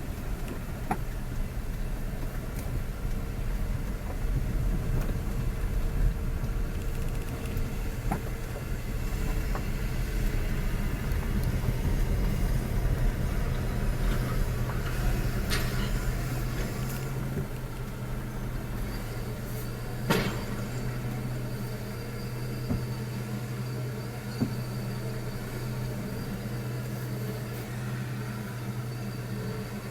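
Engine running steadily with a low hum and rumble, and a sharp click about 20 seconds in.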